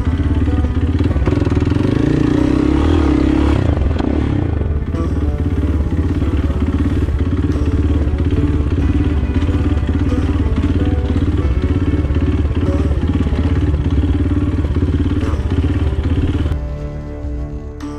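Kawasaki KLX 230's single-cylinder four-stroke engine running steadily, stopping abruptly near the end as acoustic guitar music takes over.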